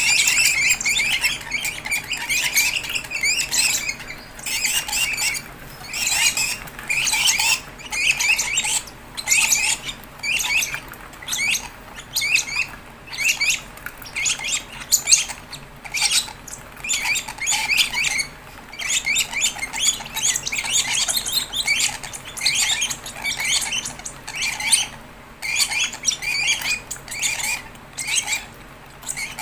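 Fischer's lovebird chicks giving high, chattering begging calls in repeated bursts, one or two a second, the food-begging of chicks at a hand-feeding.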